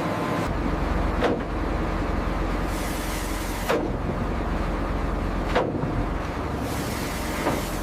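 A vessel's engine drone at sea, with rough water rushing and slapping against the hull about every two seconds.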